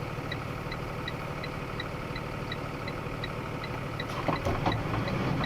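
Box truck engine idling, heard from inside the cab, with an even ticking of about three ticks a second. A few knocks come about four seconds in as the engine sound grows slightly louder.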